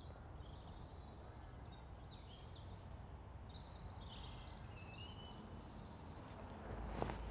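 Small birds chirping and warbling faintly over a low, steady outdoor hush, with a sharp click near the end.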